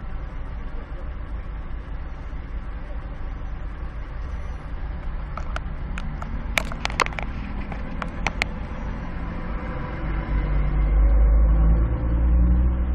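A car's engine running, heard from inside the cabin as a steady low rumble. Midway there is a run of sharp clicks, and from about ten seconds in the rumble grows louder as the car pulls away.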